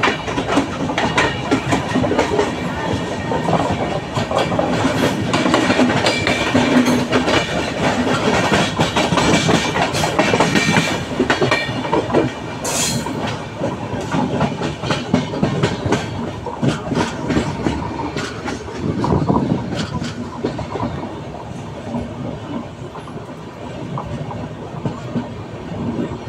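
Train running on the rails, its wheels clattering over the track with a continuous clickety-clack, a little quieter in the last few seconds.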